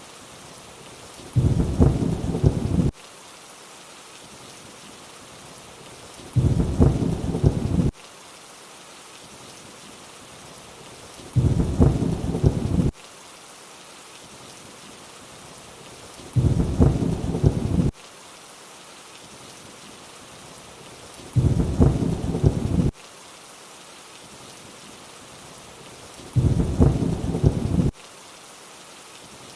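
Steady rainfall hiss with a short rumble of thunder that comes back every five seconds, six times in all. Each rumble lasts about a second and a half and starts and stops abruptly, like the same short thunder clip repeating.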